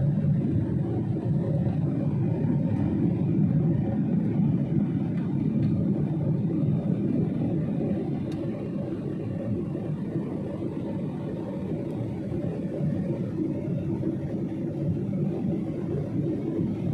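Airliner engines and airflow heard from inside the passenger cabin: a steady, loud, low rumble with a faint steady hum above it, during the takeoff or climb.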